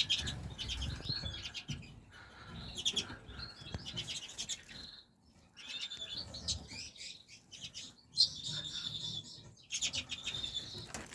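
Captive finches chirping and twittering in quick high-pitched bouts with short pauses between them, and a held trilling note lasting about a second, starting a little after eight seconds in.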